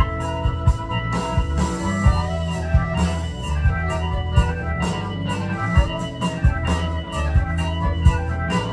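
Live band music in an instrumental passage: sustained chords over a steady drum beat.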